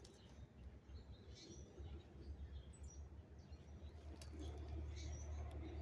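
Faint riverside outdoor ambience with a few short, high bird chirps scattered through it, under a low rumble that grows louder in the second half.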